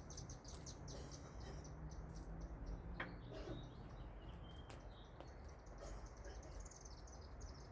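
Faint birds chirping in the background over a low steady hum, with a light sharp tap about three seconds in and another small click a little later.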